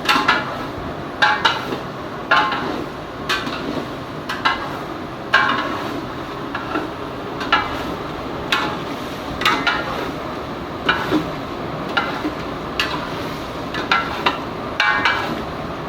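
Metal spoon knocking and scraping against a cooking pot as chicken gizzards are stirred and fried, with sharp strikes about once a second over a steady frying sizzle.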